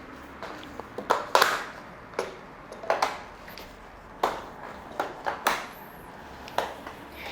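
Sharp clicks from a bicycle's bottom bracket and pedal area, about ten at uneven spacing with a few coming in quick pairs. This is the clicking a bottom bracket or pedal makes under pedalling force when it is poorly fitted or its threads are not greased.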